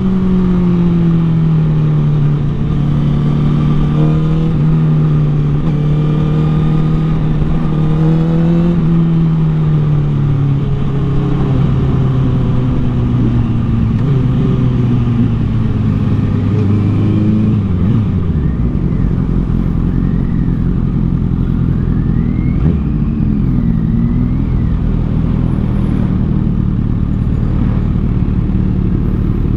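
Honda CBR1000RR inline-four engine with a Taylormade aftermarket exhaust, running under way with slow rises and falls in revs. The note eases gradually lower, then drops off about two-thirds of the way through to a steady low running note.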